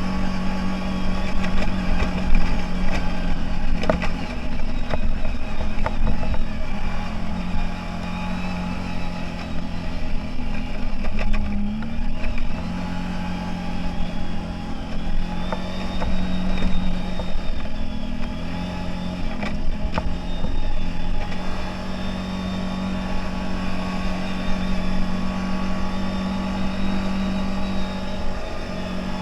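CFMOTO 1000 off-road vehicle's engine running under way, a steady drone over low rumble, its pitch dipping briefly twice.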